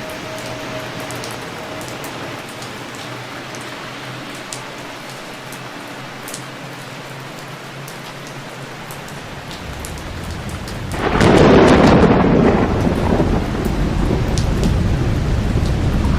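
Steady rain falling, with scattered small drips. About eleven seconds in, a loud clap of thunder breaks and rolls on, rumbling, to the end.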